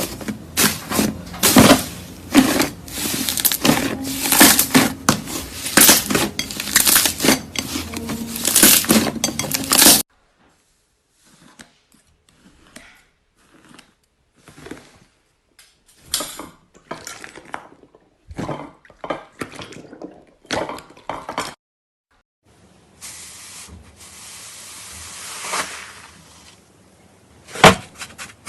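Slime being pressed and worked by hand, giving dense crackling and popping clicks for about ten seconds, then sparser clicks after a sudden cut, then a softer hissy stretch with one sharp pop near the end.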